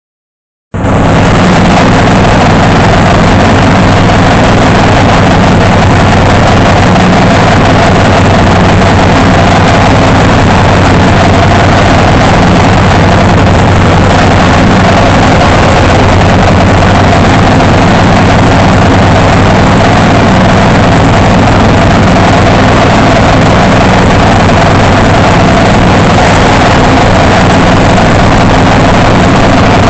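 Zero-turn riding mower's engine running steadily, very loud and close, starting suddenly just under a second in.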